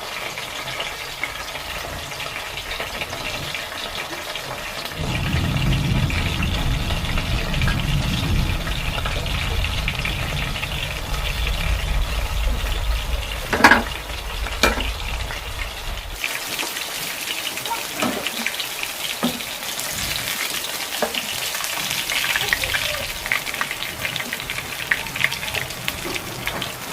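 Food sizzling and frying in a pan, a steady crackling hiss, with two sharp clicks a second apart about halfway through.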